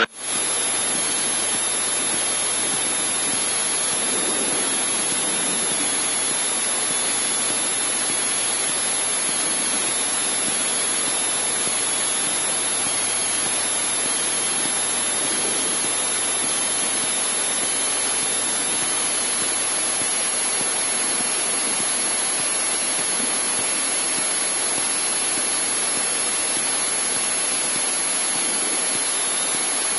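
Steady cabin noise inside a Cessna 152 taxiing, the engine and propeller at low power making an even rushing hiss with a faint low hum that fades near the end.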